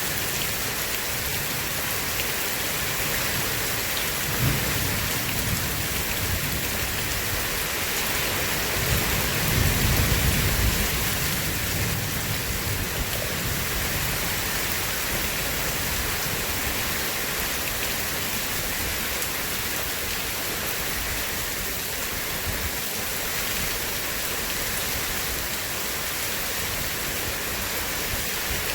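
Steady heavy rain hissing, with rolls of thunder: a short low rumble about four seconds in and a louder one building and fading around ten seconds in.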